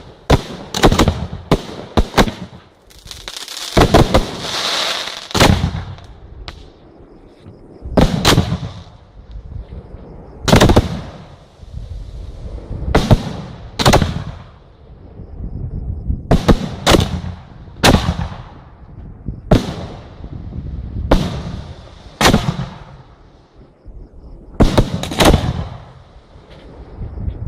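Fireworks exploding one after another in a display: loud bangs every one to three seconds, each trailing off, with a crackling stretch about four to five seconds in.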